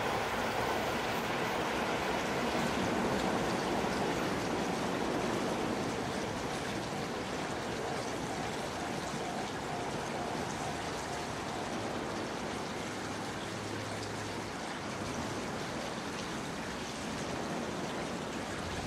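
A steady rushing noise, with a limited express electric train's running sound on the rails fading slowly as it draws away over the first several seconds.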